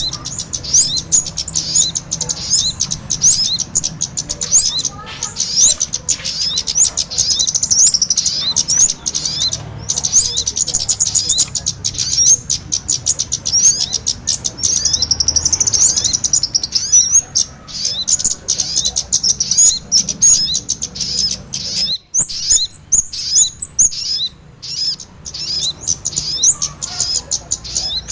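Bird-lure recording of kemade and sogon ontong calls: a dense, unbroken stream of rapid, high-pitched chirps and twitters, with only brief pauses about ten seconds in and again past twenty seconds.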